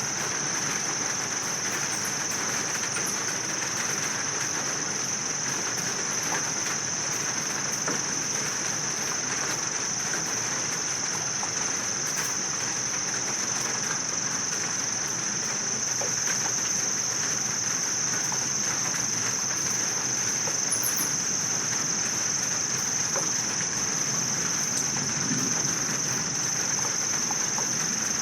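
A steady, unbroken high-pitched chorus of crickets or other insects over an even hiss of steady rain.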